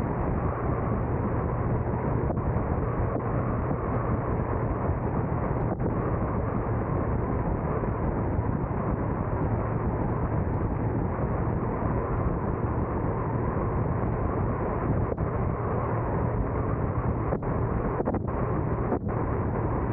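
Car driving along at a steady pace: continuous engine, tyre and wind noise with a low hum, even in level throughout.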